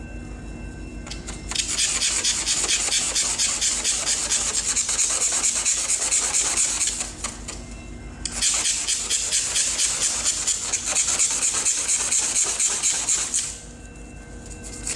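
Hand rubbing across car paint crusted with polyurethane spray foam overspray, a fast gritty scraping in two long passes with a short pause between. The gritty sound is the sign of overspray still bonded to the paint; it goes silent once the paint is clean.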